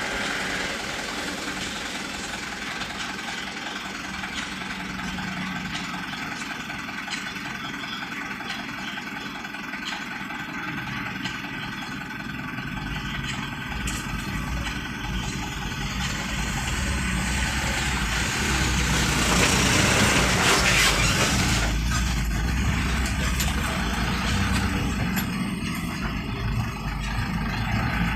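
Motor vehicle engines running in slow road traffic, with a low engine rumble that builds partway through and a vehicle passing close and loud about two-thirds of the way in.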